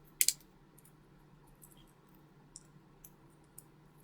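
Two quick, sharp clicks about a quarter second in, then faint scattered ticks as latex modelling balloons are handled and twisted.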